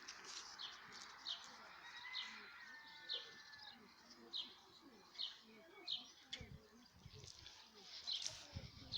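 A bird repeating a short, high, falling chirp about once a second, with low rumbling coming in over the last few seconds.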